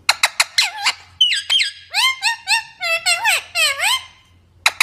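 Parrot vocalising: a quick run of sharp clicks, then a string of squeaky calls that swoop up and down in pitch, with a few more clicks near the end.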